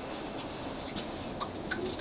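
Faint background noise inside a Class 458 electric train carriage: a steady low hiss with scattered small clicks and ticks.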